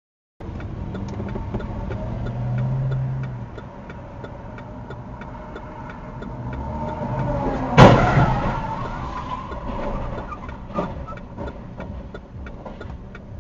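Car running with road noise and a faint regular ticking, then one sudden loud crash of a collision about eight seconds in, ringing on briefly, with a smaller knock a few seconds later.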